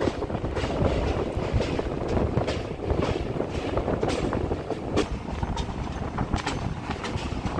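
Passenger train running along the track, heard from inside a coach: a steady rumble of wheels on rail with sharp clicks from the rail joints, roughly two a second.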